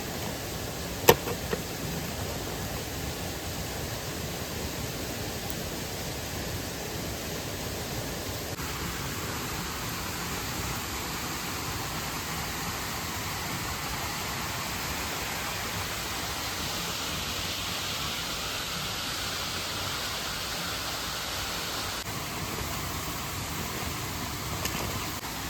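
Steady rushing of a mountain stream and waterfall, with one sharp click about a second in. The rush changes tone abruptly twice, once partway through and again near the end.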